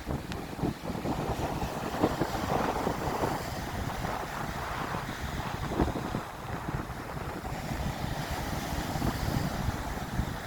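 Storm surf at sea, waves breaking and washing in uneven surges, with wind buffeting the microphone.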